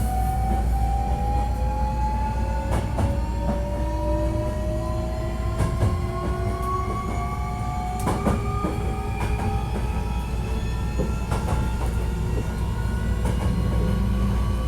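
Hankyu 1300 series electric train running, heard from inside the car. The traction motors' whine climbs slowly and steadily in pitch as the train gathers speed, over a steady low rumble. Wheels click over rail joints in pairs every couple of seconds.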